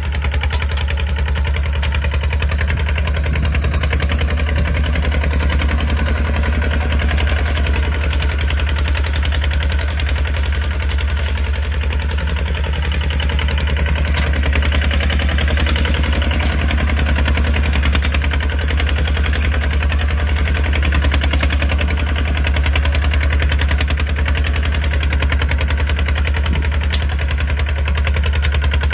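Kubota RT155 single-cylinder diesel engine running steadily under load, a loud rapid, even chugging.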